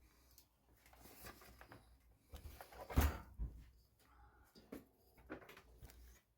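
Scattered knocks and clicks of wood and tools being handled, the loudest a sharp knock about three seconds in.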